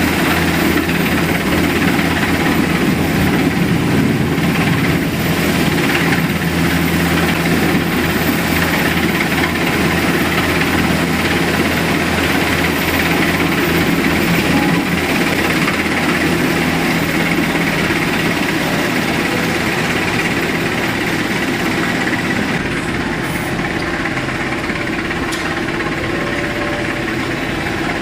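A helicopter's rotors and turbine engine running steadily during a hover, heard through a glass door, easing slightly near the end.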